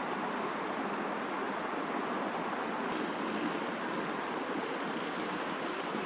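Steady rush of distant city traffic, an even constant roar with no bird calls standing out.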